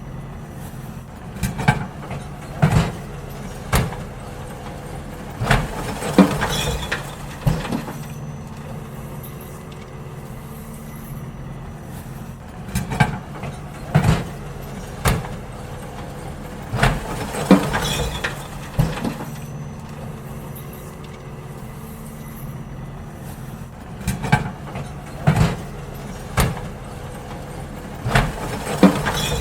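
Garbage truck engine running steadily while bins are emptied into it, with groups of loud clanks and bangs every few seconds as the bins are tipped and knocked against the hopper.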